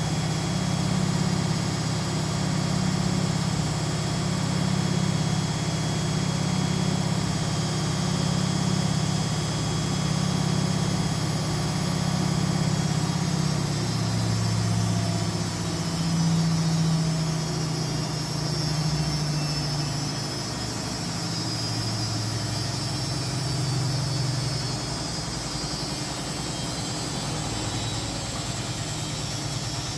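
Washing machine running with a steady motor hum; about halfway through the hum's pitch shifts and starts to waver, and it grows a little quieter in the last third.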